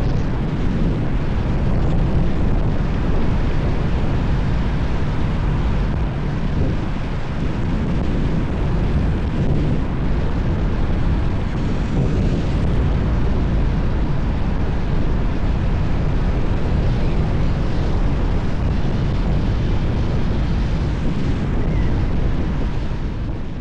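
Road and wind noise of a moving vehicle: a loud, steady, deep noise with no distinct tones or events.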